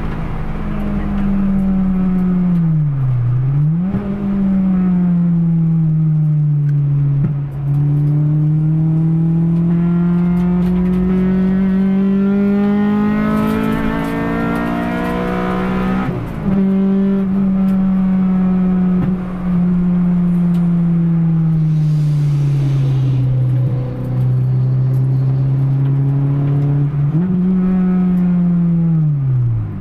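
Honda Integra Type-R B18C inline-four with aftermarket intake and exhaust, heard from inside the stripped cabin of a Civic EG6 at full pace on track. The revs dip and climb through gear changes, with one long climbing pull that breaks off briefly about halfway. After that the revs ease off, rise again and drop steeply near the end.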